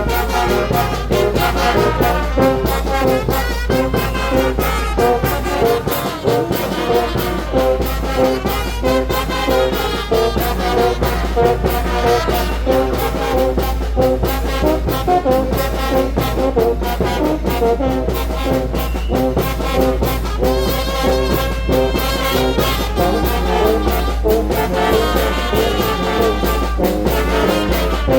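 Brass band playing a tune over a steady percussion beat.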